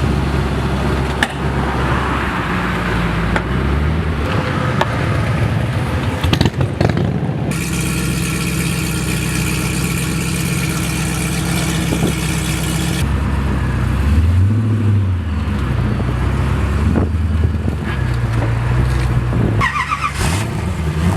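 Koenigsegg supercar engine idling steadily, with a short rev up and back down about two-thirds of the way through.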